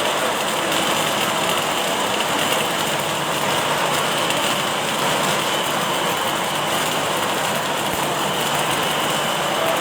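Automatic welding machine at work, a steady, unbroken hiss and hum with a faint high whine.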